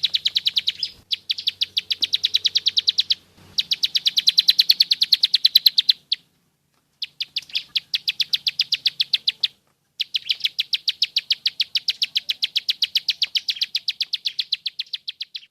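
Ciblek sawah (prenjak sawah), a small prinia, singing its rapid clicking 'nembak' song: fast runs of sharp, even, high notes at about ten a second. The runs last a few seconds each, with short breaks between them.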